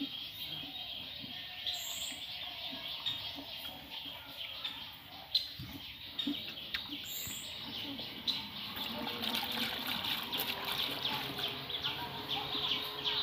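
Small birds chirping continuously, thickening into fast chatter in the second half, with a higher call repeating about every five seconds.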